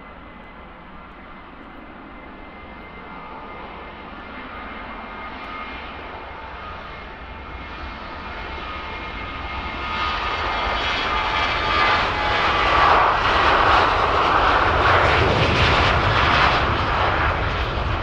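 Boeing 737-700 Business Jet's CFM56 turbofans at takeoff power, a steady whine under a jet roar that grows louder and louder, peaking about thirteen seconds in as the aircraft passes.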